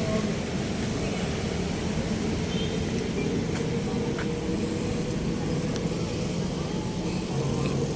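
Steady low engine rumble with faint background voices.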